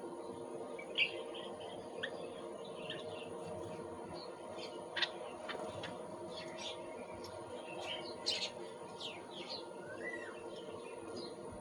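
Small birds chirping at feeding time, many short, sharp chirps scattered throughout, over a steady low hum.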